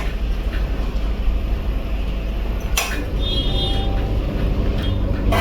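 A steady low rumble, with one sharp clack about three seconds in.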